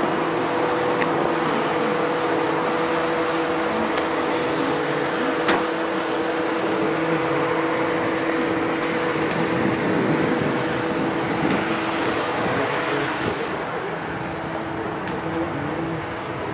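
1983 Chevrolet K10 pickup's engine idling steadily, an even running hum with two held tones that eases slightly near the end.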